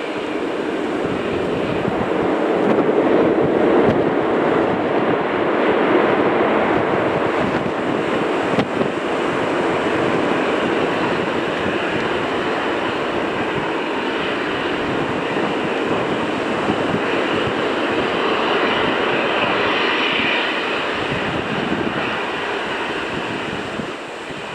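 Jet airliner's engines rushing past, building over the first few seconds and staying loud, with a higher whine coming through near the end.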